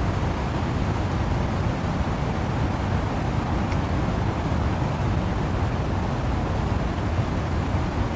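Wind and rain in trees: a steady, deep, even rushing noise with no breaks or single drops standing out.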